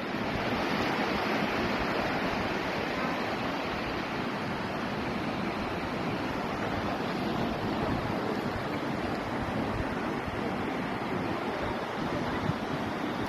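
Steady rush of water, an even, unbroken noise.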